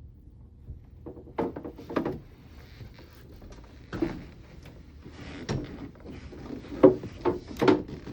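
A new rubber impeller being pushed and worked into a marine water-pump housing: a string of irregular knocks and clunks, the loudest a little before the end.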